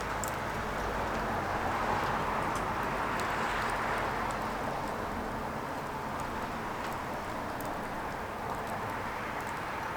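Firewood burning: a steady rush of flame with scattered small crackles and pops.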